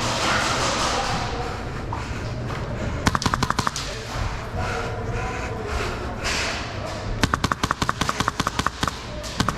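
Airsoft guns firing rapid bursts: a short burst about three seconds in, then a longer string of rapid shots near the end. Indistinct voices can be heard in between.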